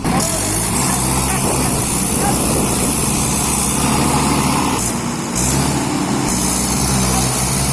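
Tractor engine running steadily, its pitch shifting a couple of times.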